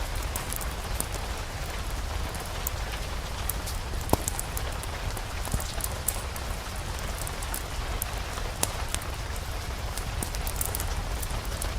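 Steady rain, an even hiss over a low rumble, with scattered sharp crackles and pops throughout and a couple of louder ones about four and eight and a half seconds in.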